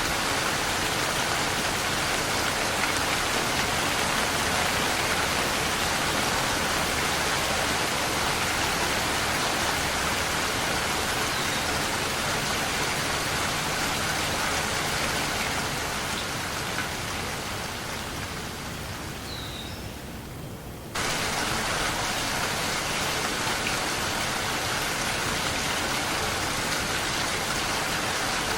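Steady rain falling, an even hiss of drops. About two-thirds of the way in it fades quieter over several seconds, then cuts back in abruptly at full level.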